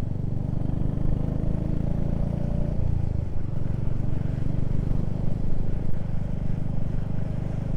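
Motorcycle engine running steadily while riding, with a brief change in the engine note about three seconds in.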